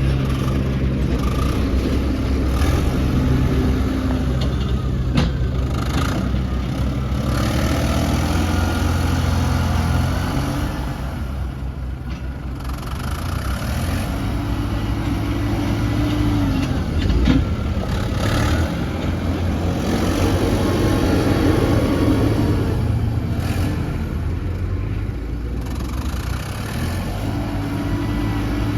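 Heavy diesel engines of an excavator and dump trucks running, their pitch rising and falling as they rev, with a few sharp knocks.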